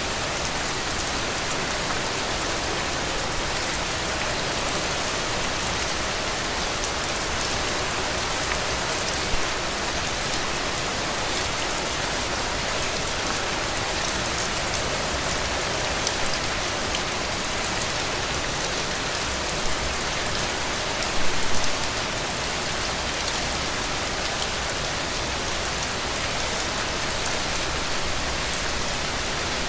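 Heavy rain falling steadily on a roof, an even hiss of drops with a few brief louder spikes, the largest a little past two-thirds of the way in.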